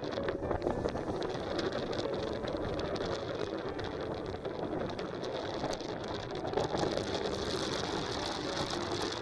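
Strong wind on the microphone: a steady rushing noise full of small crackles, growing hissier in the second half.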